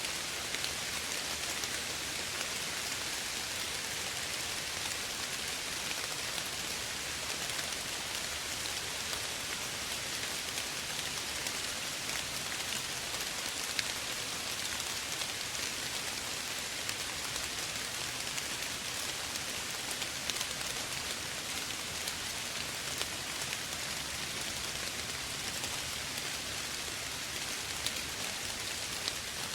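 Steady light rain falling, an even hiss with faint scattered drop ticks.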